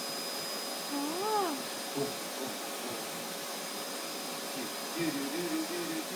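Vacuum cleaner running steadily, with a macaw calling over it: one rising-and-falling call about a second in, a short one shortly after, and a wavering call near the end.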